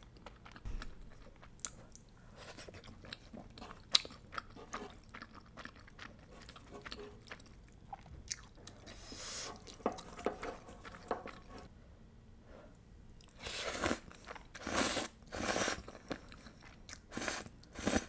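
Close-miked chewing of creamy shrimp penne pasta, wet mouth sounds coming in bouts, with scattered sharp clicks of wooden chopsticks and spoon against the pan.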